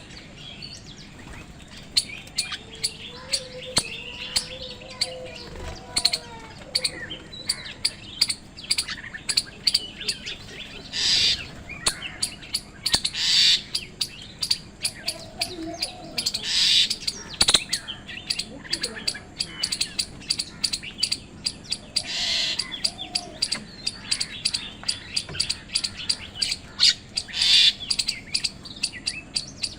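Crows cawing in loud, harsh calls every few seconds over a busy chatter of sharp chirps, clicks and whistles from common mynas squabbling over food.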